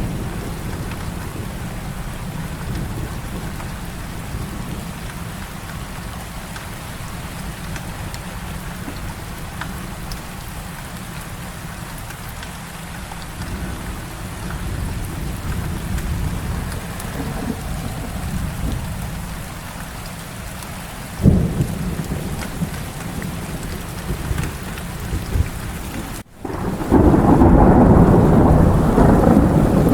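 Heavy rain falling steadily with rolling thunder rumbling underneath. About two-thirds of the way through there is a sharp thunder crack. Near the end, after a split-second gap, a louder, fuller burst of thunder comes in over the rain.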